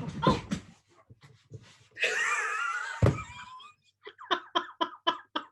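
A woman's non-speech vocal sounds: a drawn-out wavering cry about two seconds in, with a sharp thump about three seconds in, then a quick run of short voiced bursts, about five a second, near the end.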